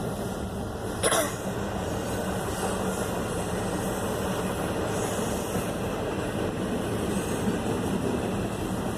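A train's cars rolling past on the rails, a steady rumbling noise. One short, sharp sound comes about a second in.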